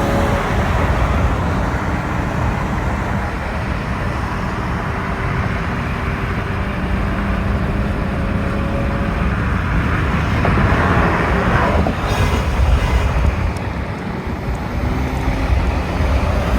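Car engine and exhaust running under steady road and tyre noise as cars drive along, swelling briefly about eleven seconds in.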